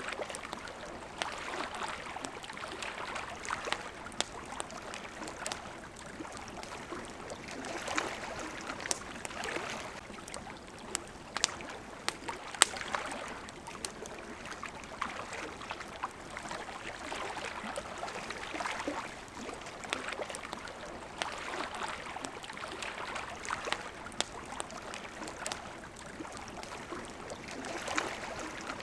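Water lapping and washing in gentle swells every few seconds, with the sharp crackles and pops of a wood campfire scattered over it; the loudest pop comes about twelve and a half seconds in.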